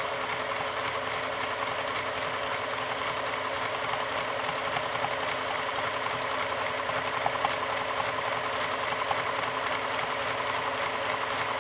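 Pfaff 1229 sewing machine running at a steady speed, sewing an overcast stitch test, with a fast, even rhythm of the needle mechanism.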